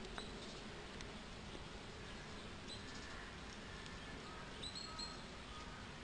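Faint, short, high-pitched chirps of small birds, a few scattered calls with a cluster near the end, over a low steady background hiss.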